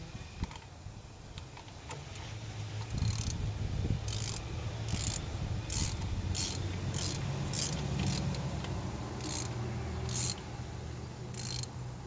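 Hand ratchet wrench clicking in short runs as it is swung back and forth to tighten bolts, starting about three seconds in and repeating every half second to a second, with a low steady hum underneath.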